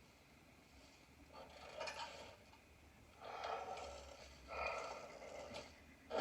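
Three soft, breathy snores, each about a second long, from sleeping cartoon tractors.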